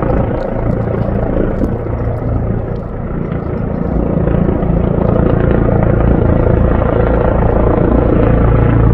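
Rescue helicopter close by, its rotor and engine running with a steady low beat. The sound grows louder about four seconds in as the helicopter comes nearer.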